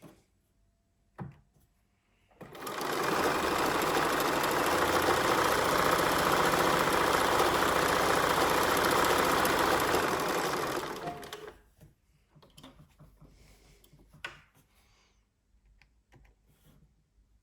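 Bernina 1230 sewing machine running at a steady speed for about nine seconds. It starts a couple of seconds in and winds down just before the last third, followed by a few light clicks.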